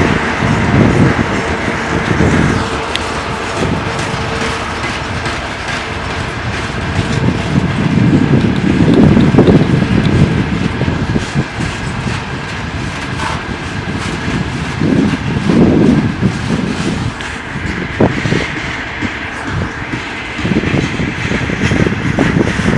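2TE116 diesel locomotive hauling a train up a grade: its 5D49 diesel engines running under load, a low rumble that swells and eases every few seconds, with the wheels clattering over the rails.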